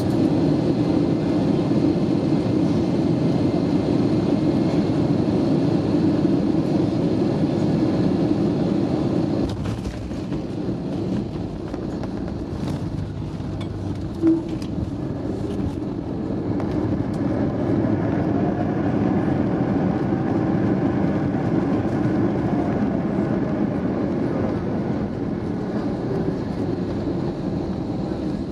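Steady cabin rumble of an Airbus A320neo rolling on the ground after landing, from its Pratt & Whitney PW1127G geared turbofans and the rolling gear. The rumble drops a little about a third of the way in, and a faint tone rises and then falls in the second half.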